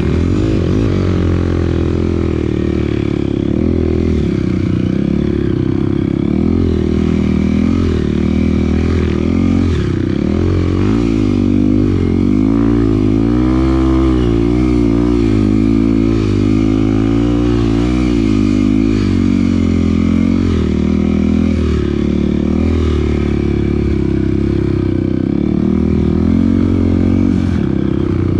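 Off-road motorcycle engine running continuously while riding, its pitch rising and falling gently with the throttle.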